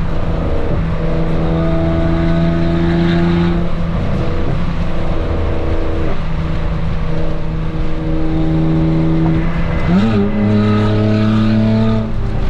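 Honda Accord's J-series V6 running loud through a 3-inch exhaust with the cutout valve open, at a steady pitch, then rising quickly in revs about ten seconds in.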